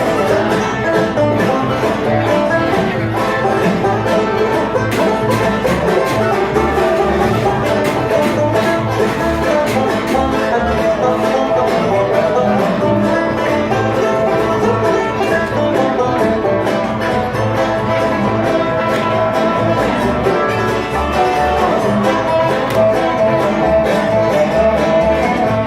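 Live bluegrass string band playing an instrumental break between verses: quick plucked picking, likely banjo and guitar, over a steady bass pulse.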